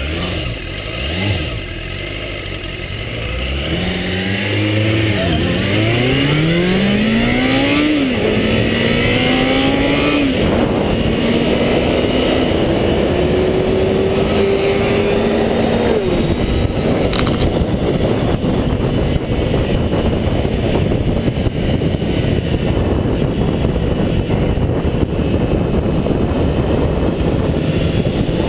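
400cc motorcycle engine revving hard as it accelerates up through the gears: a rising engine note cut by upshifts about 5, 8, 10 and 16 seconds in, then a steady loud rush of noise at speed.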